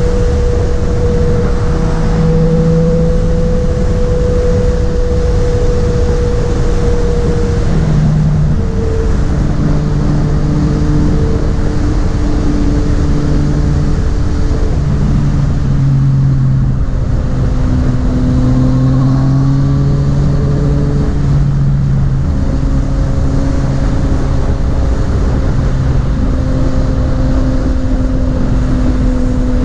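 Yamaha MT-09's three-cylinder engine running on the road under heavy wind rush, its note shifting up and down in pitch several times as the speed changes.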